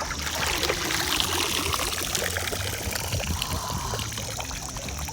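Water pouring and trickling out of a plastic live bait trap as it is lifted out of the river, starting suddenly and easing off a little toward the end.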